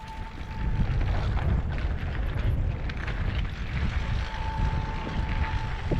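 Riding an electric mountain bike on a dirt trail: wind buffeting the microphone and tyres rolling and crunching over the ground. A thin steady whine from the e-bike's motor is heard in the first second and again from about four seconds in.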